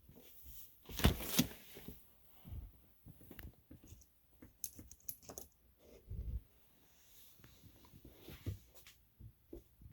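Small parts of an HO-scale model locomotive being handled on a workbench: scattered clicks, taps and light clatter, the loudest cluster about a second in.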